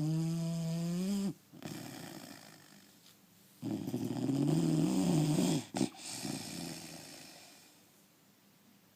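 A dog snoring: two loud, buzzing snoring breaths a few seconds apart, each trailing off into a softer breath that fades out.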